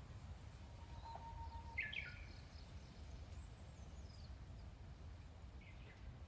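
Faint outdoor ambience: a low steady rumble with a few short bird chirps about two seconds in and a faint falling whistle a little later.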